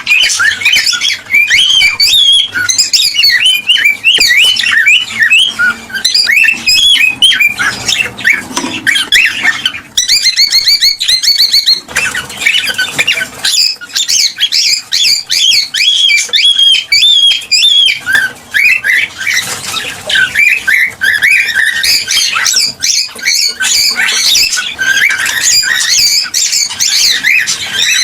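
Cockatiels chirping and squawking without pause in quick, high, warbling calls, with a fast rattling trill about ten seconds in.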